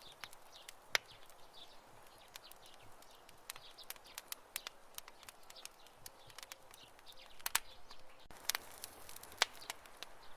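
Wood campfire crackling: irregular sharp pops and snaps over a soft steady hiss, with the loudest pops about a second in and in the last three seconds.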